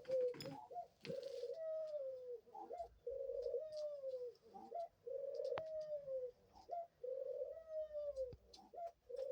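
Pet dove cooing: about five low coos in a steady series, each about a second long and dropping in pitch at the end, with short rising notes between them.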